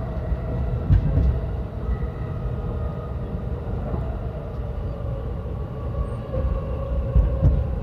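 Yokosuka Line electric train running, heard from inside the carriage: a steady low rumble of wheels on rail with a faint whine that drifts slightly lower in pitch. Heavier knocks come about a second in and again near the end.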